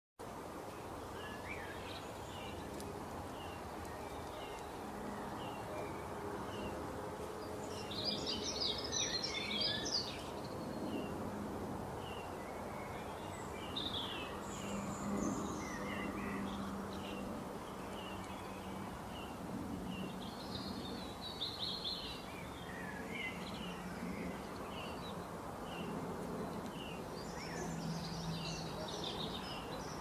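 Small birds chirping and calling throughout, with a busier flurry of song about a third of the way in and again near the end, over a steady low background hum.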